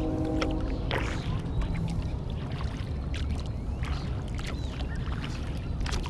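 Kayak paddle strokes: the blades dip and splash in lake water at irregular intervals, over a steady low rumble.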